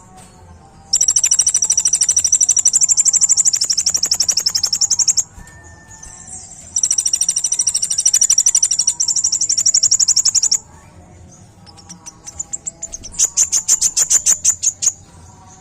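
Kolibri ninja (a sunbird) singing: two long, very fast, high-pitched trills of about four seconds each, then a run of quicker separate high notes near the end.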